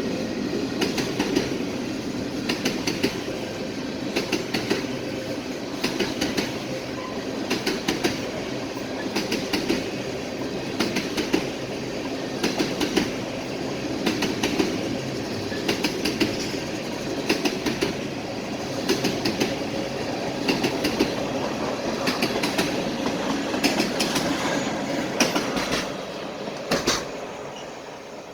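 Ethanol tank cars of a Norfolk Southern freight train rolling past with a steady rumble, the wheels clicking over rail joints in regular clickety-clack pairs. Near the end the sound quickly falls away as the train goes by.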